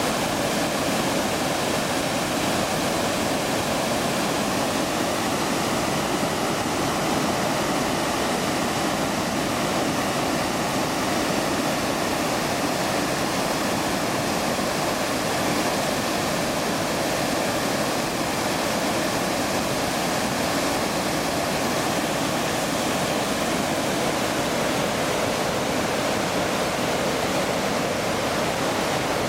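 Water rushing over a dam spillway: a loud, steady roar of falling water.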